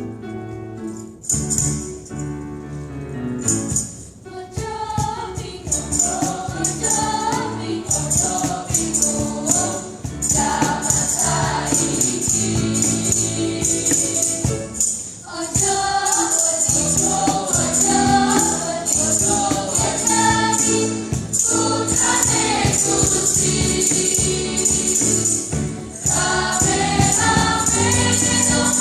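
Church choir singing in parts over a musical accompaniment with a steady rhythmic shaken percussion, like a tambourine. The voices come in about four or five seconds in, after a short instrumental opening.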